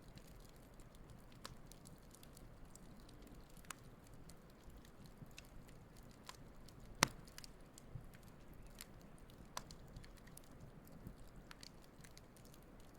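Wood campfire burning: scattered small crackles and snaps over a low, soft rumble of the flames, with one sharp pop about seven seconds in.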